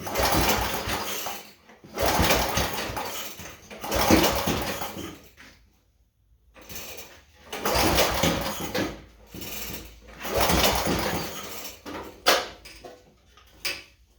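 Gilson snowblower's small engine firing in rough bursts of a second or two, about seven times, dying down nearly to nothing between them: a cold engine trying to catch and not yet running steadily.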